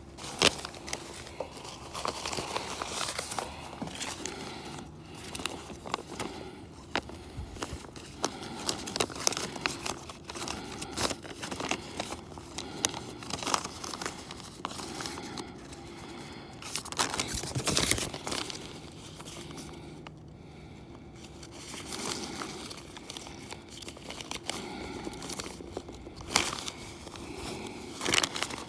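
Close rustling and crinkling, with many scattered clicks and knocks.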